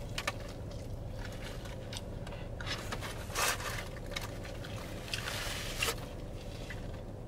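A crispy fried chicken leg bitten and chewed close to the microphone, with a few short crunching sounds over a steady low hum inside a parked car.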